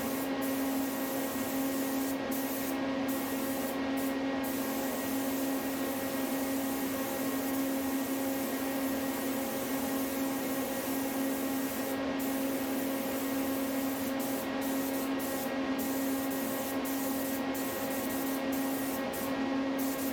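Paint sprayer spraying satin black enamel: a steady hiss of spray over a constant motor hum. The hiss briefly cuts out several times, most often near the end.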